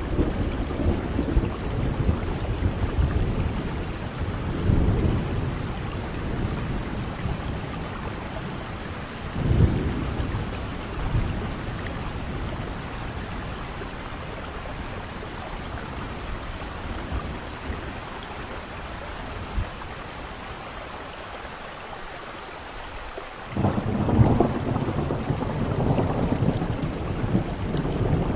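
Steady rain with thunder. Low rumbles swell and fade during the first ten seconds, then the rain goes on alone for a while. A loud rumble of thunder breaks in about twenty-three seconds in and carries on.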